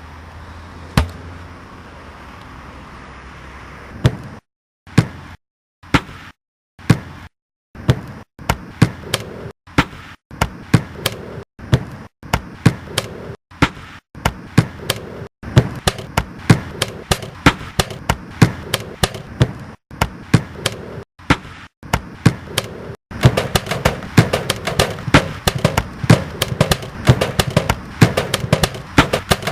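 Low hum of kitchen appliances, then sharp clicks and knocks from the appliances cut into short repeated snippets, forming a rhythm. The sound stops dead between snippets. The rhythm speeds up and gets denser, and after about 23 seconds several layers overlap.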